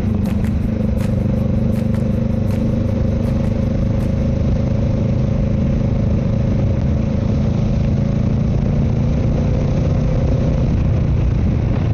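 Honda Rebel 500's parallel-twin engine running steadily while riding at an even speed, with a few light clicks in the first few seconds.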